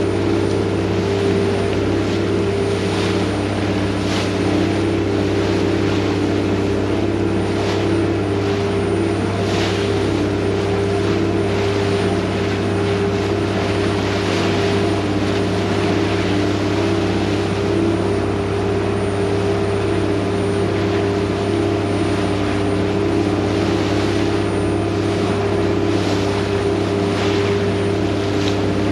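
Venetian vaporetto water bus's diesel engine running steadily under way, a constant low drone, with faint swishes recurring every second or two.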